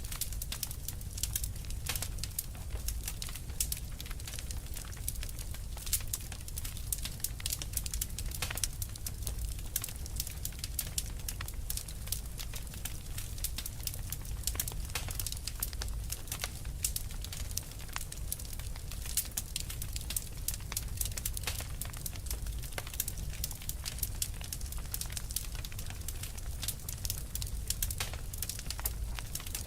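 A burning fire crackling steadily, with dense irregular pops and snaps over a low rumble of flame.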